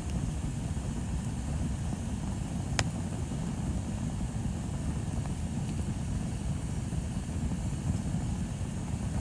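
Bonfire burning: a steady low rumble with one sharp crackle a little under three seconds in.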